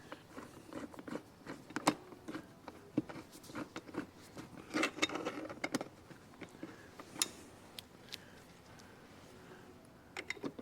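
Irregular light clicks, taps and rattles of screws, small parts and hand tools being handled during seat reassembly, busiest about halfway through and quieter near the end.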